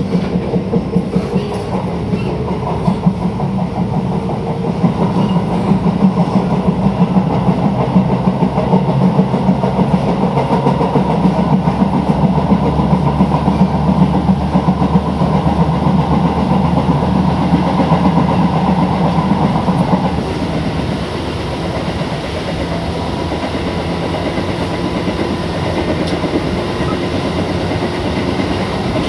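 Tobu 8000 series electric train running between stations, heard from motor car MoHa 82110: the hum of its TM-63 DC series traction motors under resistance control over the rattle and clack of the wheels on the rails. About twenty seconds in the motor hum fades and the noise drops, leaving quieter rolling and rail joints.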